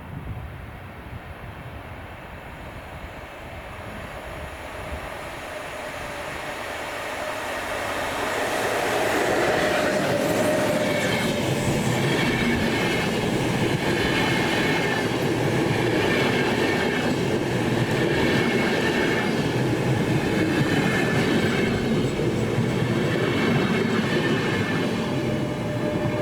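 A train approaching on rails, growing louder over about the first ten seconds, then passing close by with steady rolling wheel noise and high ringing tones above it.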